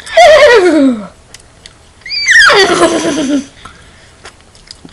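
A girl imitating a horse's whinny with her voice, twice: each call about a second long, falling steeply in pitch with a quick quiver. The second starts higher than the first.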